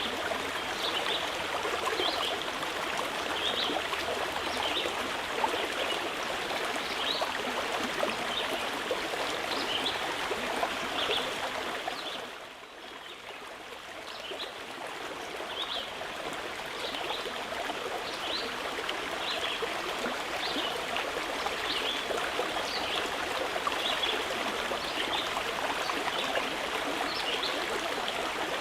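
Mountain river rushing steadily, with a small bird chirping over it in short, high, repeated notes. Both dip in loudness about halfway through and come back within a couple of seconds.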